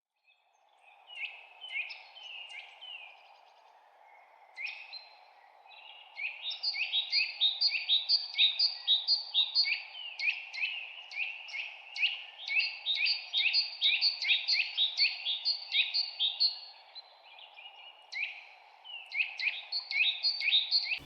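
Birds calling: a rapid series of short, sharp slurred notes from several birds overlapping, sparse at first, dense through the middle and thinning near the end, over a steady low hum.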